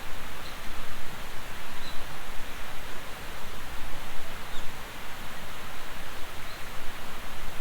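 Wind blowing outdoors, a steady rushing hiss with gusts that buffet the microphone in uneven low rumbles.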